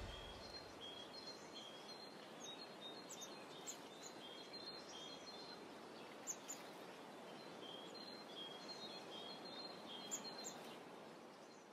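Faint birdsong: short, high chirps repeated over a steady background hiss, fading out near the end.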